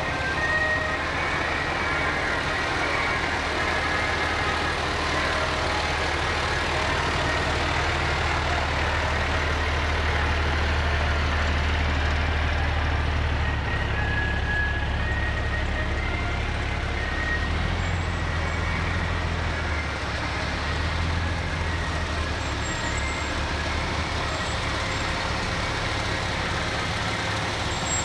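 Fire truck engines running at low speed, a steady low rumble that shifts in pitch a few times.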